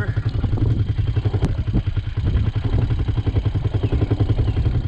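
A vehicle engine running steadily close by, a low, even, rapid beat that neither speeds up nor slows down.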